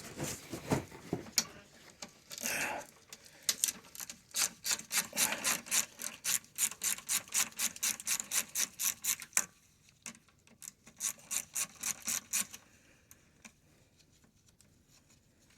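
Socket ratchet turning out a 10 mm AC condenser bolt: short rasping ratchet strokes about three a second, with a brief pause, stopping a few seconds before the end.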